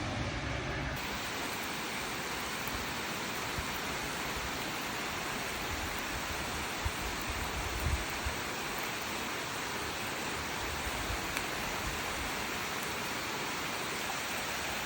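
Steady rain falling, an even hiss with no let-up. A low rumble fades out about a second in, and a few soft thumps come about seven to eight seconds in.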